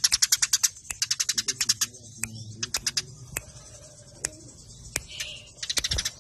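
Eurasian tree sparrows chattering in a squabble: rapid runs of sharp, clicking chirps in the first second and again near the end, with scattered single chirps between.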